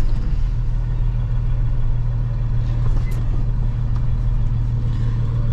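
Box truck's engine running steadily with road noise, heard from inside the cab as a constant low hum.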